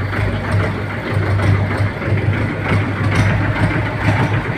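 Tractor engine running steadily with a deep low hum.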